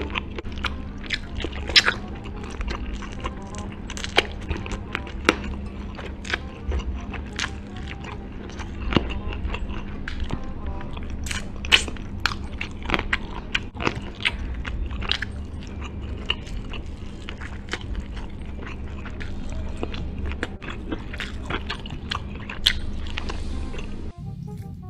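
Close-miked eating of chicken: many sharp bites and crunches with chewing, over steady background music. Near the end the eating stops and different music takes over.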